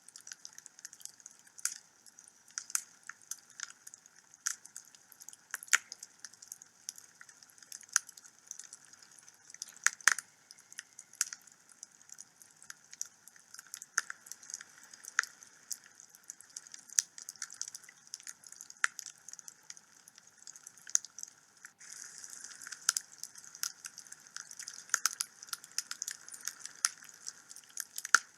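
Wood fire burning in a home fireplace, crackling with irregular sharp pops and snaps over a soft hiss. The hiss grows a little stronger about three quarters of the way through.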